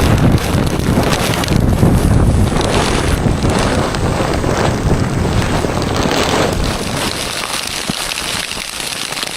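Strong wind buffeting the microphone, a dense rushing noise with heavy low rumble that eases off in the last couple of seconds.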